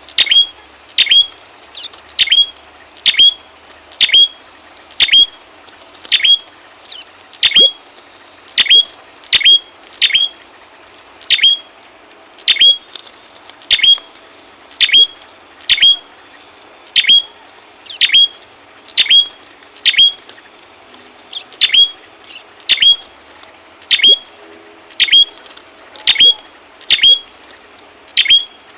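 Bird lure call of the prenjak kepala merah: a sharp, high call note repeated about once a second, each note sweeping down in pitch.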